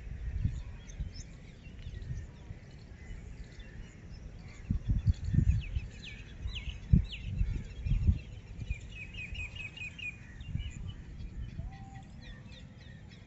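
Small birds chirping: a few quick falling chirps about six seconds in, then a fast run of about eight chirps a little later, over irregular low thumps and rumble.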